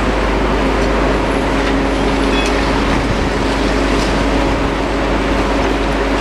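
Diesel engines of demolition machinery running steadily, with a constant engine hum and a few faint clinks.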